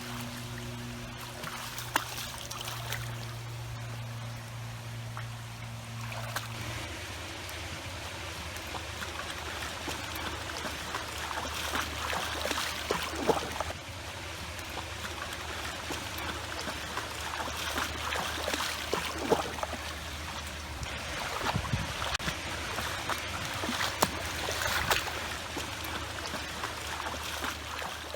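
Swimming-pool water splashing and trickling, with scattered sharp splashes and knocks. Under it runs a steady low hum that drops in pitch about seven seconds in.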